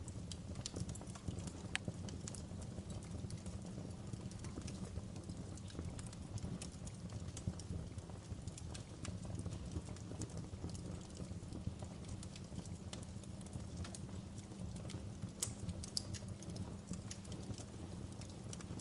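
Wood fire burning in a fireplace, a steady low rumble of flames with frequent irregular crackles and pops, a few sharper pops near the end.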